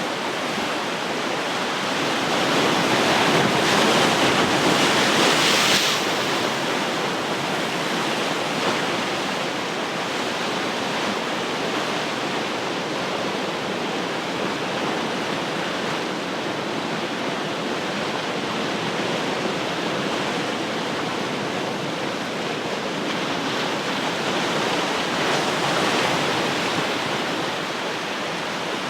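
Ocean surf: waves breaking and washing in a continuous rush, with a louder swell about three to six seconds in and a smaller one near the end.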